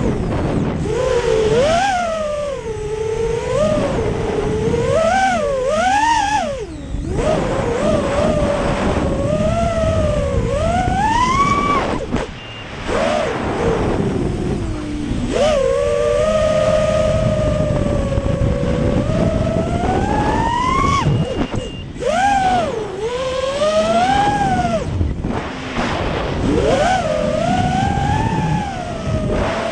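Racing quadcopter's Emax 2205 2300kv brushless motors spinning DALProp Cyclone 5-inch three-blade props, whining in flight. The pitch rises and falls constantly with the throttle, with brief drops in pitch and level several times where the throttle is chopped.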